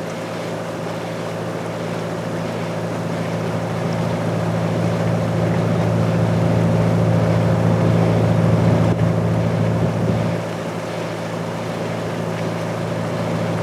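Sightseeing boat's engine running steadily aboard, a low droning hum over a rushing hiss. It grows louder toward about eight seconds in and eases back about ten seconds in.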